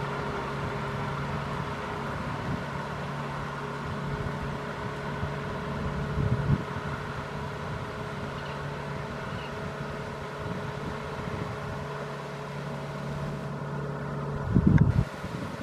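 Kubota M6040SU tractor's diesel engine running at a steady, unchanging speed, with a short rumbling surge about six and a half seconds in and a louder one near the end.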